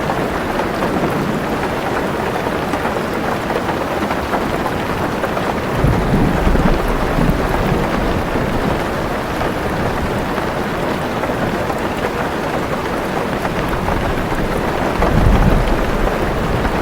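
Heavy rain drumming steadily on a car roof, with thunder rumbling low twice, about six seconds in and again near the end.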